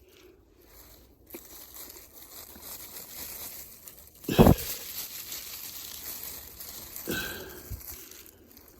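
Snow being shaken and knocked off a shrub's branches by hand: a crinkling, crunching rustle of snow-laden twigs, with a sharp thump about four and a half seconds in and a smaller one near seven seconds.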